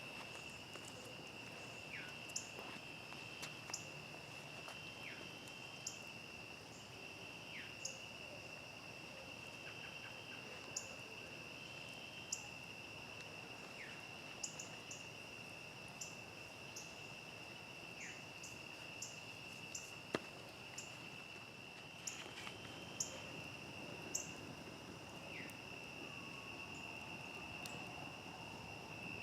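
Crickets trilling steadily, with scattered sharp pops and crackles from a campfire, one louder pop about twenty seconds in.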